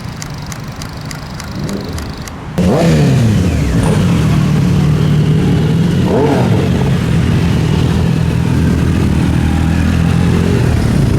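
A motorcycle engine comes in suddenly about two and a half seconds in with a rev that falls away. It is blipped once more a few seconds later, then runs steadily.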